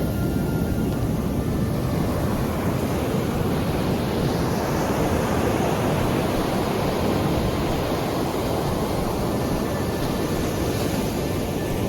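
Sea surf: waves breaking and washing ashore in a steady rushing noise, swelling a little about halfway through.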